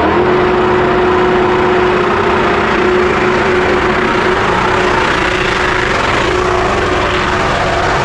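A car engine running loud and steady at constant revs, with a steady whine held throughout.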